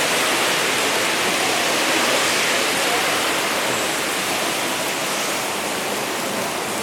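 Heavy rain falling steadily: a dense, even hiss that eases a little in the second half.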